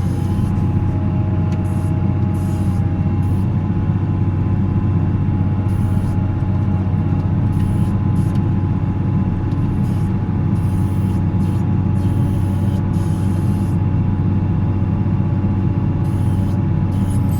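Volvo L70C wheel loader's diesel engine running steadily, heard from inside the cab: a constant low hum with a thin steady whine above it.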